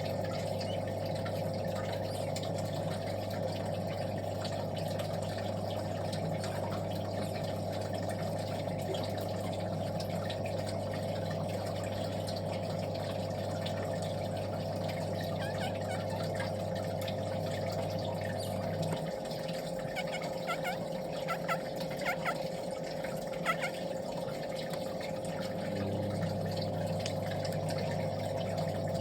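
Young birds peeping in short, thin calls over a steady mechanical hum. The low part of the hum drops out about two-thirds of the way through and returns near the end.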